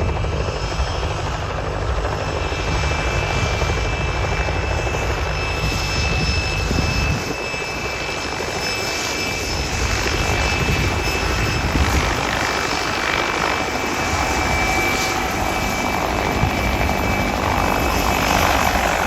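Mil Mi-2MSB helicopter's twin AI-450M turboshaft engines and rotor running, a steady high turbine whine over a broad rush of noise; the deep low rumble drops away about seven seconds in.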